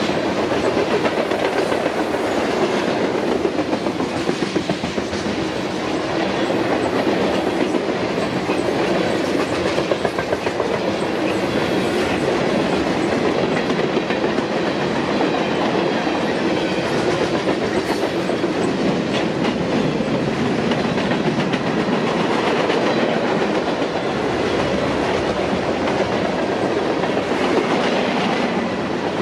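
Union Pacific mixed freight train of covered hoppers, tank cars and boxcars rolling steadily past close by: continuous wheel-on-rail noise with faint repeated clicks.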